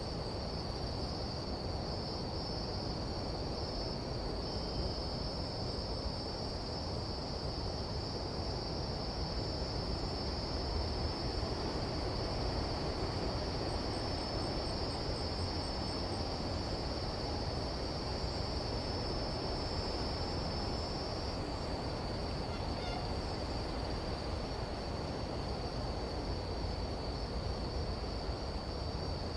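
Tropical jungle insect chorus at night: a steady, high-pitched drone over a low, even rumble. One layer of the drone drops out about two-thirds of the way through.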